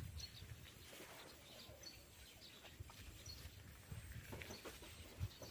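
Near silence with a few faint, short bird chirps scattered through it.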